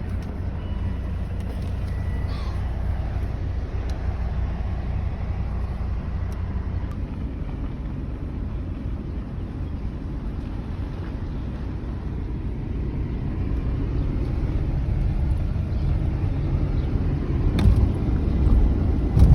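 Steady low rumble inside a car cabin: engine and road noise. It grows a little louder near the end, with a few short bumps.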